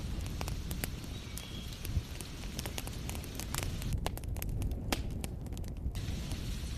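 Wood fire crackling in a fireplace, with frequent sharp pops over a low rumble. It is mixed with a steady rain hiss that drops out for about two seconds past the middle.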